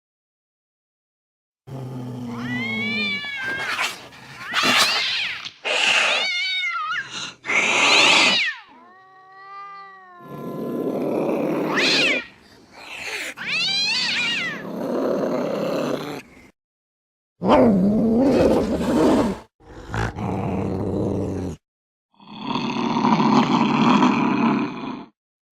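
Angry cats yowling and hissing in a string of short separate clips: wavering, rising and falling yowls mixed with harsh noisy hisses, with a few brief silent gaps between them.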